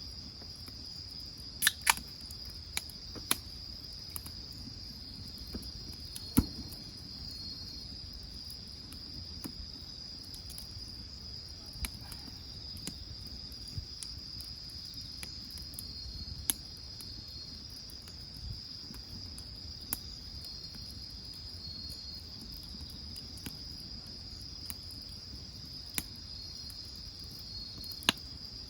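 Night insects chirping in a steady high-pitched trill, with sharp pops and crackles from burning firewood every few seconds; the loudest pops come about two seconds in, around six seconds and near the end.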